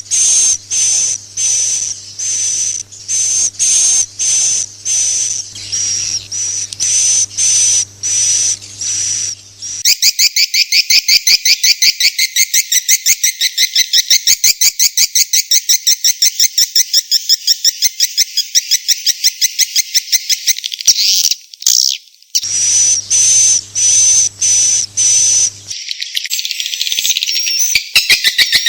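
Swiftlet calls played as a roosting ('inap') lure sound: high, sharp chirps repeating about twice a second, over a low steady hum. About ten seconds in they give way to a loud, fast, buzzing trill lasting some ten seconds, then after a short break the chirps return, turning to mixed twittering near the end.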